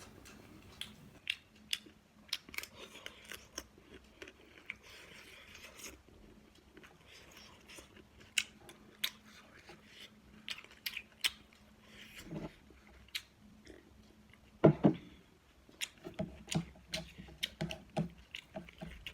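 Close-miked chewing and mouth sounds of someone eating: many sharp wet clicks and smacks, with two short louder low sounds about twelve and fifteen seconds in, and rhythmic chewing near the end.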